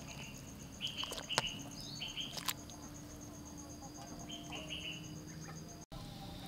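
Small birds chirping in short, falling notes, over a steady pulsing insect trill that stops abruptly near the end. A couple of sharp clicks sound in the first half.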